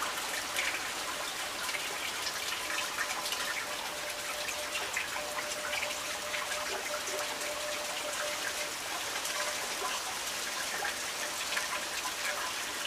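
Light rain falling: a steady patter of raindrops.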